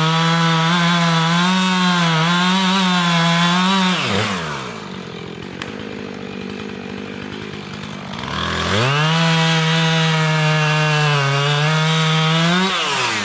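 Chainsaw cutting a cherry tree at full throttle, dropping to idle about four seconds in, revving back up about four seconds later to cut again, and easing off near the end.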